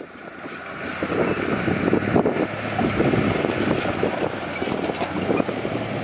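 Heavy diesel machinery running steadily with a low engine hum, with a few scattered knocks over the top.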